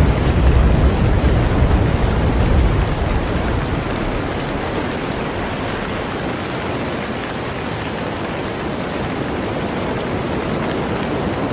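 Heavy rain falling on a boat, a steady dense hiss. A low rumble underlies it for the first few seconds and then fades out.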